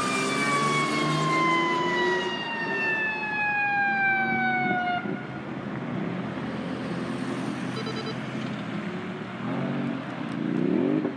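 Fire engine siren winding down in one long falling tone over about five seconds, over the truck's road noise. Softer wavering low tones follow near the end.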